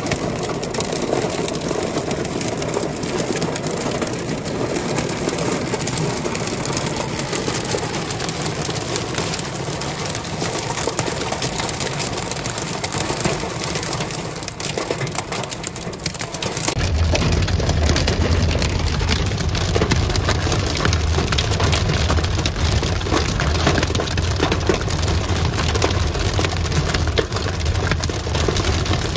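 Hailstones pelting a car in a heavy hailstorm, a dense continuous rattle of hard impacts. About two-thirds of the way through, a low steady rumble joins and the sound grows louder.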